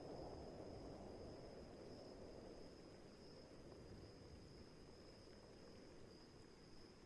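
Faint night-storm ambience: a low rumble of distant thunder or wind slowly dying away, under a steady high insect chirr like crickets.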